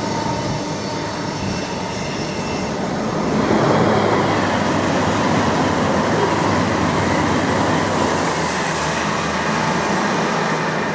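Freight train passing at speed: a continuous loud rush of wheels on rails, with a faint steady whine in the first few seconds, growing a little louder about three and a half seconds in.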